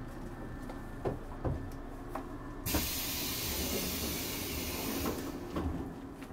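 Inside a JR 185 series electric train coach: a low running rumble with a few knocks, then a sudden hiss of compressed air that starts about a third of the way in and lasts about two and a half seconds before the sound tails off.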